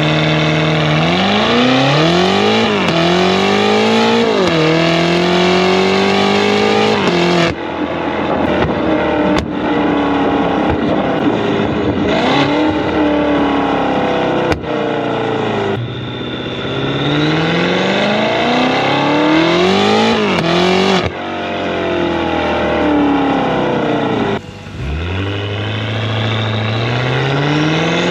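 BMW S68 4.4-litre twin-turbo V8 through free-flow downpipes and a valved full exhaust with the valves open, heard close to the exhaust, accelerating hard through the gears with quick upshifts. It lifts off the throttle twice, with a few sharp cracks while off the throttle.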